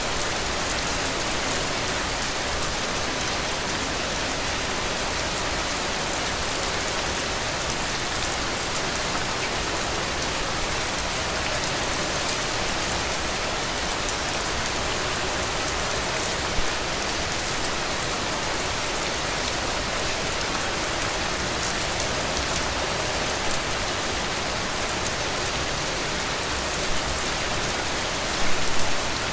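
Heavy rain falling steadily on a roof, a dense even hiss, with a few sharper drops standing out, including a short cluster near the end.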